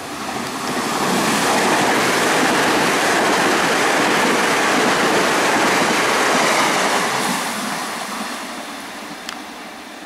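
Six-car ITX-Saemaeul electric multiple unit passing through the station without stopping: a broad rumble of wheels on rails that swells over the first two seconds, holds loud for about five, then fades as the train recedes.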